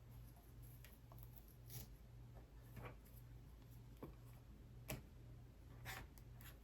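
Near silence: room tone with a low steady hum and a handful of faint, sharp clicks and taps from handling small items.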